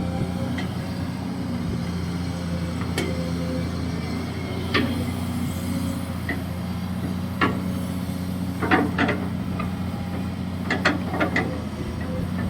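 Hydraulic excavator's diesel engine running steadily while digging, with scattered sharp knocks from the machine's working gear, several in quick succession in the second half.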